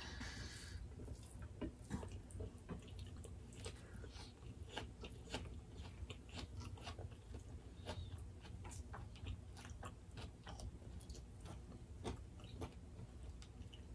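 Faint, close-miked chewing of food eaten by hand, a scatter of small irregular mouth and finger clicks.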